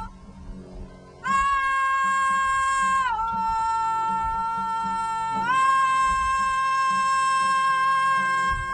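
A single bright, reedy instrument playing long held high notes: one note from about a second in, a step lower for about two seconds, then back up and held to the end, with a low hum beneath.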